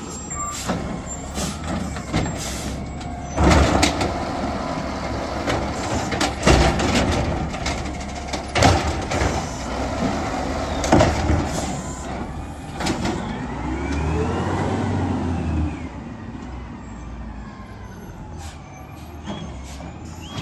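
Garbage truck engine running, with several loud bangs and clatters in the first dozen seconds. The engine revs up and back down about two-thirds of the way through.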